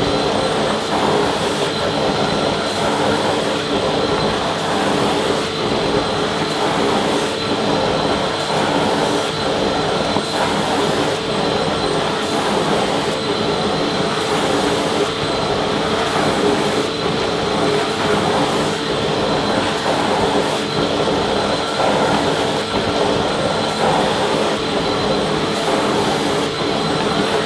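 Vacuum cleaner running steadily: a continuous rush of air with a steady motor whine.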